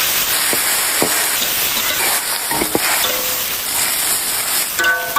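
Garlic and chilies sizzling in hot oil in a wok as they are stir-fried until fragrant, a steady hiss with scattered light clicks of the spatula. A short squeak near the end.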